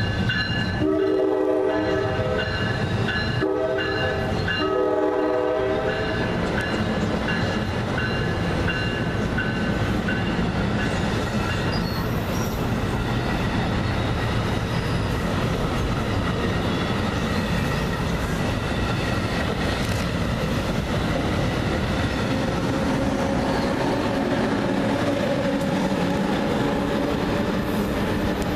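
Train horn sounding three blasts, the first the longest, followed by the steady rumble and clatter of an NJ Transit Multilevel commuter train's wheels on the rails as it passes.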